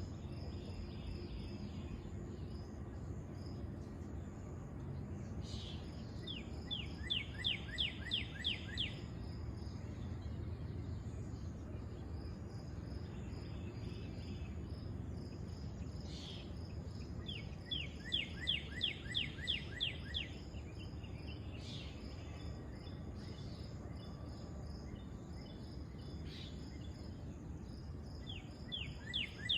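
An animal calling outdoors: a quick series of about eight short chirps, repeated roughly every ten seconds, over a steady low rumble of background noise.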